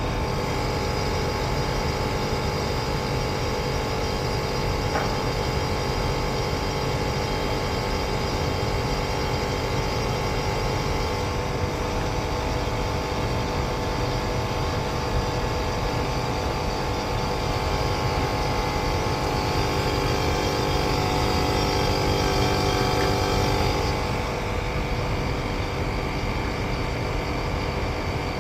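Actron air conditioner's outdoor unit running in heating mode: a steady mechanical hum with several constant tones, some of which drop out about 24 seconds in. The system is running too hot, and the technician finds its gas pressures are not right.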